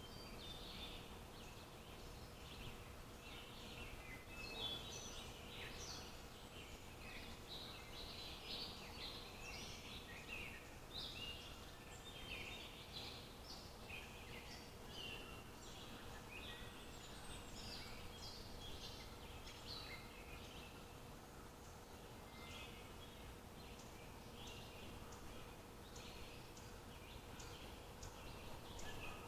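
Songbirds chirping and calling, many short overlapping calls throughout, faint over a steady low background hiss.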